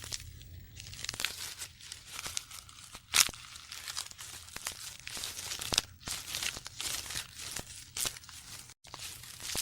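Irregular crackling and crunching, with sharp louder snaps about three seconds in and again near six and eight seconds.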